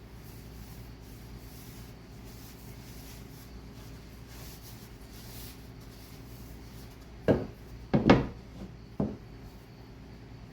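A few sharp wooden knocks close together, about three quarters of the way in, over a faint steady hum.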